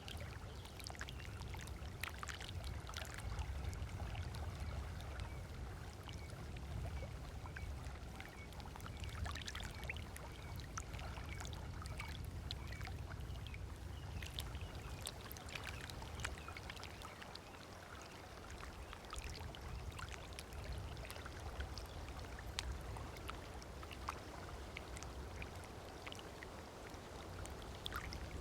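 Small waves lapping at the shoreline of a lake beach, a constant run of little splashes and trickles over a steady low rumble.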